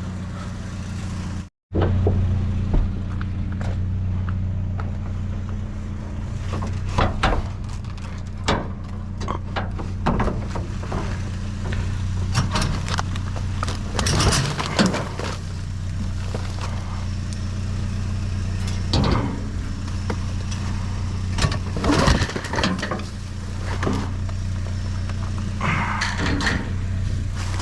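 Pickup truck engine running steadily, a low hum, with scattered knocks and rattles over it.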